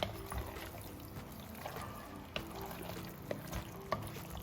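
Chicken frying in masala in a pan over a high gas flame: a faint, steady sizzle with a few light clicks.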